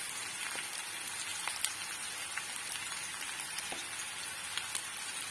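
Potatoes and green beans frying in oil in an iron kadai: a steady sizzle with scattered small pops and crackles.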